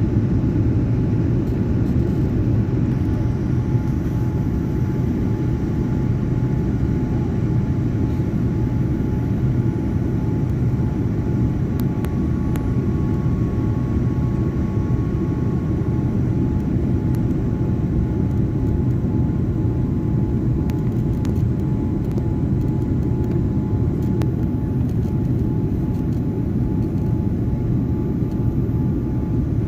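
Jet airliner engine and airflow noise heard from inside the cabin, a steady low rumble with a faint steady whine above it.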